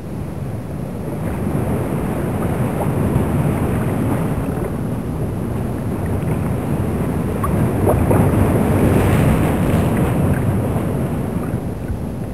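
Steady rushing, rumbling noise of wind and sea, with wind buffeting the microphone and a few faint clicks.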